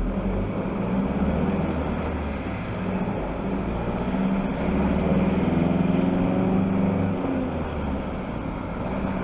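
Heavy goods vehicle's diesel engine running while driving, heard from inside the cab with road noise, its pitch drifting gently up and down.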